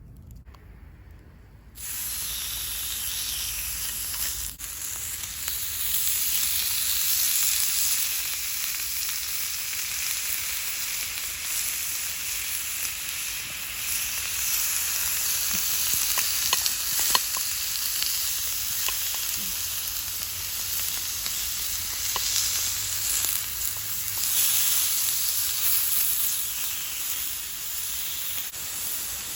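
Beef tongue frying in a hot skillet, a steady sizzle that begins abruptly about two seconds in, with a few small pops along the way.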